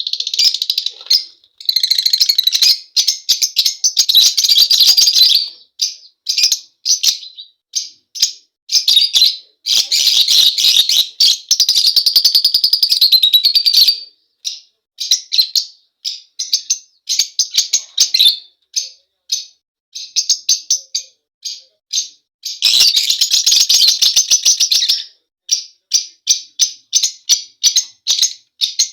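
Lovebirds chirping: several-second runs of rapid, high-pitched chattering, broken by strings of short, sharp single chirps.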